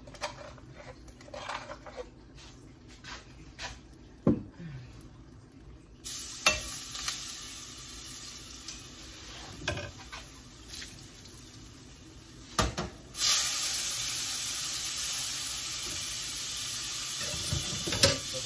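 Shrimp going into a hot frying pan and sizzling: a faint sizzle starts about six seconds in, then turns into a loud, steady sizzle about thirteen seconds in. Before that there are scattered clicks and knocks of a bowl and utensils being handled.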